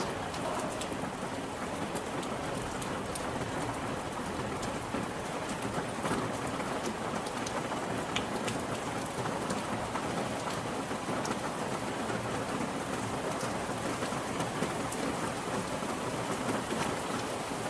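Steady rain falling: an even hiss of rain on a surface with scattered sharp drop ticks.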